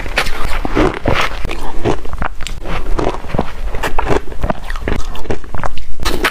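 Close-miked chewing of shaved ice dipped in water: loud, crisp crunches in quick irregular succession.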